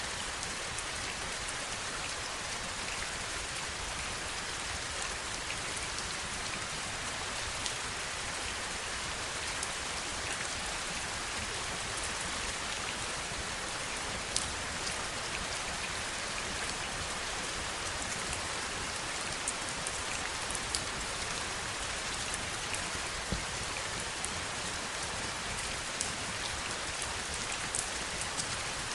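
Steady rain, a dense even hiss with individual drops ticking sharply here and there, a few louder taps in the second half.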